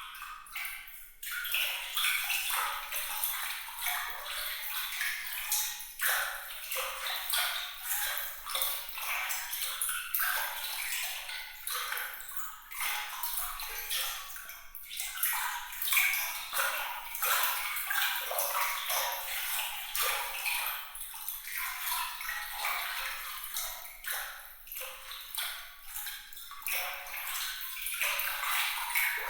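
Water trickling and splashing in a continuous, uneven flow of small bright droplet sounds, with little bass.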